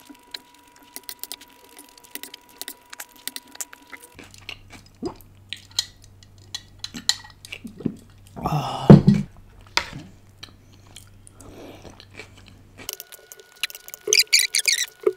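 Close-miked chewing and mouth sounds of a person eating stir-fried udon noodles, with a fork and spoon clicking and scraping on a plastic plate. One louder, longer mouth sound comes a little past halfway.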